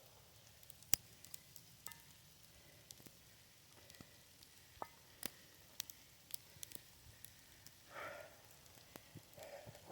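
Irregular faint ticks and crackles, typical of snow or sleet pellets striking the camera and microphone in a snowstorm. Two brief louder soft sounds come near the end.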